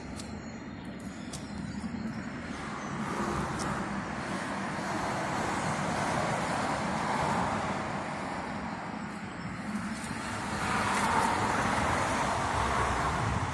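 Hyosung Aquila 125 motorcycle on the move: a steady rumble of engine and road noise that swells louder about two seconds in and again near the end.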